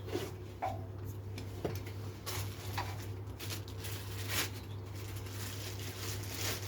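Packaging and parts of a power rack being handled: scattered rustles and light knocks over a steady low hum.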